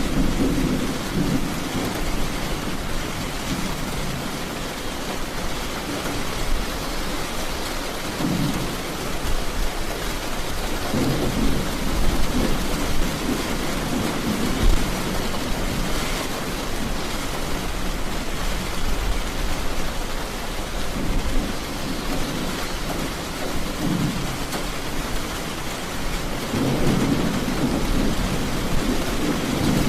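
Heavy rain falling steadily, with low rolls of thunder swelling up near the start, around the middle and near the end.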